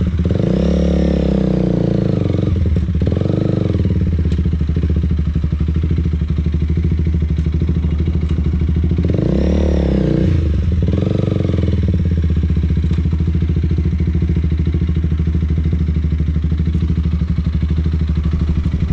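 Motorcycle engine pulling away and working through the gears twice: each time it revs up, drops in pitch at a shift and rises again, then falls back as the rider shifts down. Between and after the runs it settles to a steady low run.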